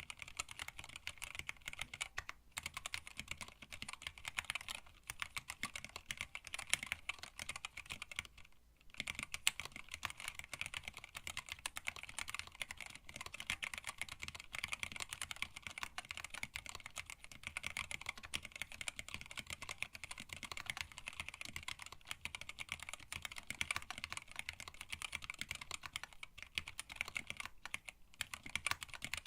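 Fast, continuous typing on a hand-wired split mechanical keyboard with Tealios linear switches, blank black PBT keycaps and an acrylic case, a dense run of key clacks with one brief pause about nine seconds in.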